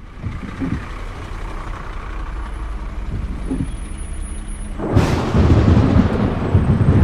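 Thunderstorm: a steady rushing background with a low rumble, then a sudden loud thunderclap about five seconds in that rumbles on heavily.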